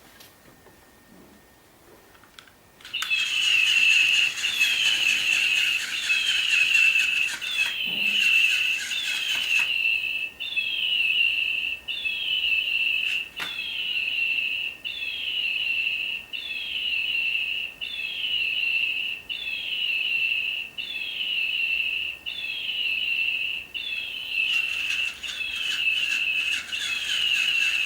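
Battery-powered toy bird chirping over and over, about three seconds in, a loud electronic tweet with a falling sweep repeating about every second and a half. A rattling whir, typical of its wing-flapping mechanism, runs under the first several chirps and returns near the end.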